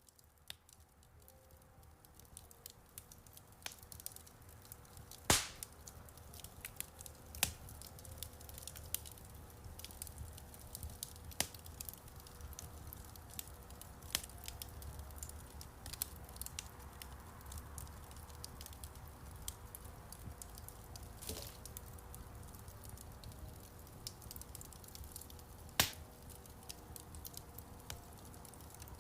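Wood fire crackling in a fireplace: a run of irregular small crackles with a few sharper pops, over a low steady rumble of the burning fire.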